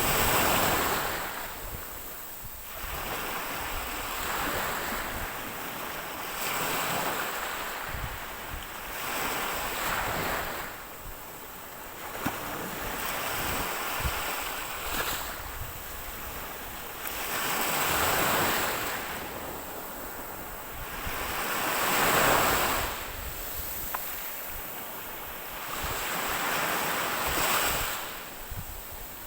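Ocean waves breaking and washing up the shore, each surge swelling and fading every few seconds, with wind rumbling on the microphone.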